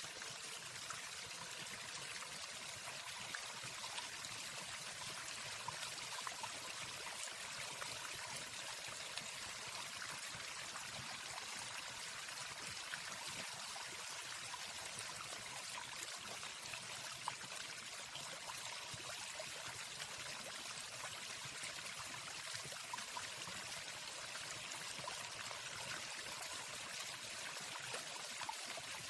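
Waterfall: steady rushing water, with no bird song over it.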